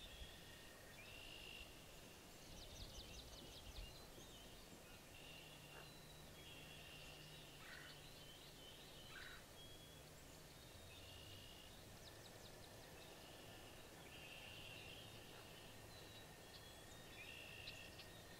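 Faint outdoor chorus of small birds: short high calls repeating every second or two, with a few quick trills, over a steady low hum.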